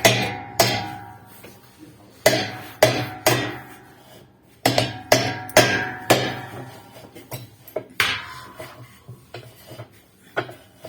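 Hammer blows on metal, each strike ringing out, coming in quick runs of two to four blows with short pauses between.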